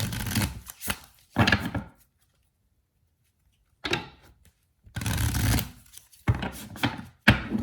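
A deck of tarot or oracle cards being shuffled in short bursts, with the cards clattering and rustling against each other. There are about five bursts separated by brief pauses.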